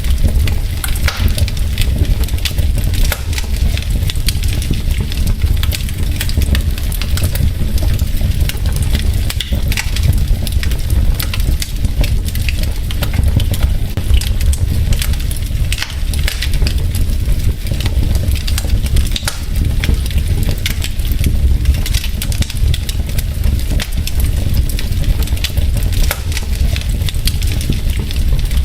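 Wood fire burning in a fireplace, its logs crackling with frequent, irregular sharp pops over a steady low rumble.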